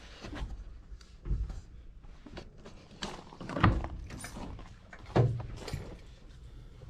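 A vehicle door being handled: three knocks, the loudest about halfway through.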